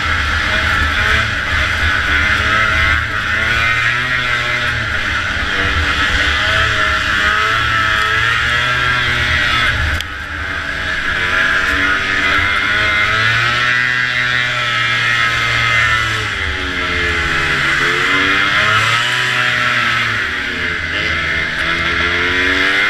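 Two-stroke engine of a vintage racing snowmobile under way, its pitch rising and falling repeatedly as the throttle is worked, over a steady loud hiss of track noise.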